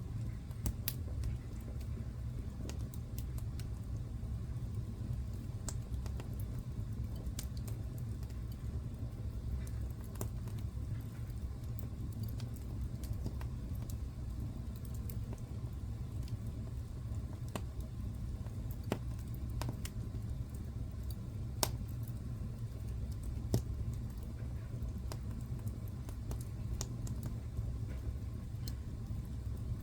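Wood fire crackling in a fireplace: irregular sharp pops and snaps over a steady low rumble, with a few louder pops now and then.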